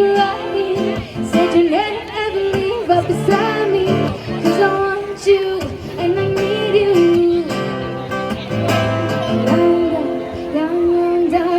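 Music: a woman singing a pop song with guitar accompaniment.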